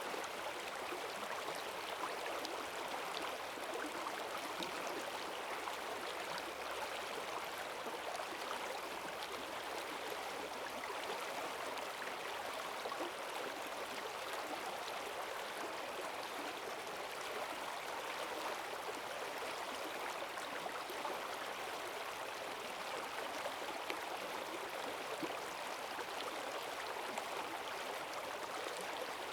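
Forest stream swollen with rainwater rushing and gurgling over its bed in a strong, steady current.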